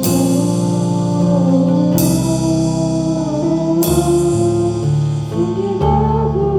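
Live worship band music: sustained keyboard and guitar chords under a wavering melody line. A drum kit marks the beat with a strike and long ringing wash about every two seconds, four in all.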